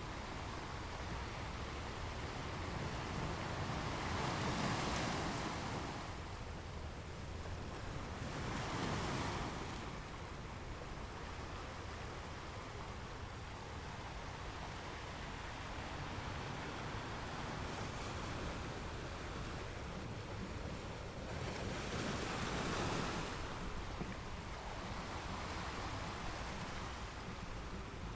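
Ocean waves breaking and washing up on shore, a steady surf hiss with three louder swells of breaking water. Wind adds a low rumble.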